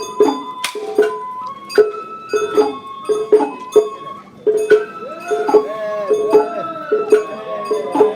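Sawara-bayashi festival music: a bamboo flute melody with held and sliding notes over a steady beat of drum and clanking metal-gong strikes.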